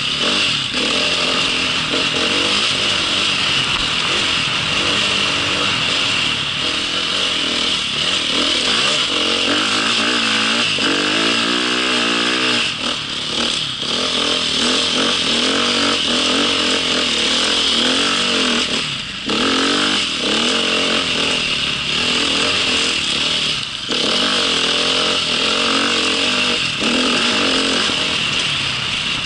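Dirt bike engine running while being ridden, its note rising and falling with the throttle. The engine dips briefly a few times, notably about two-thirds of the way through and again near the end.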